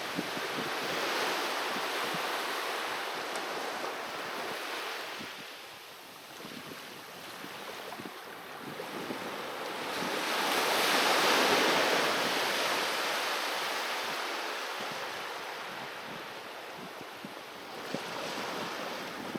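Sea waves breaking and washing on a beach: a rushing surge that swells and falls back, with a big wave peaking about halfway through.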